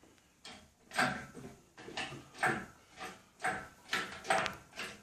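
Engine crane's hydraulic jack being pumped by hand to raise the load, a regular stroke about twice a second starting about a second in.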